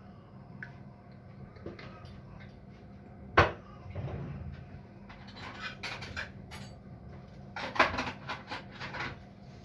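Kitchen handling sounds: one sharp knock of something set down hard, then bursts of quick clicks and rattles as dishes or containers are handled.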